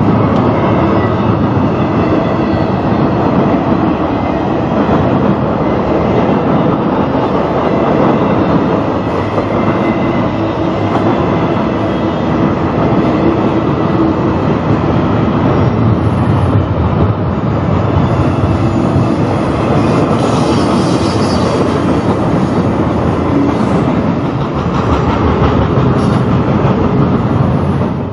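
Train passing at close range, its cars rolling by with a steady, loud rumble of wheels on rail.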